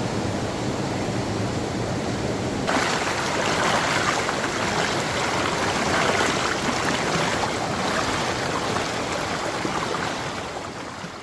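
Water rushing steadily, louder and brighter from about three seconds in, fading away at the end.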